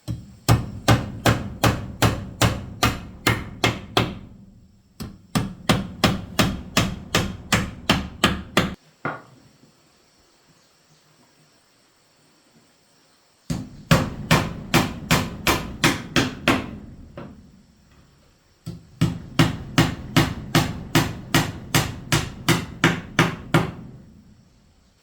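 Hammer striking wood in four runs of quick, even blows, about two and a half a second, with short pauses between the runs.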